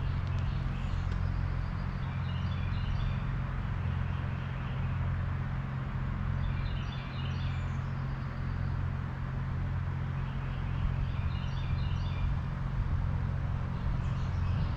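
A songbird singing a short phrase of quick, stepped, falling notes, repeated every few seconds over a steady low rumble.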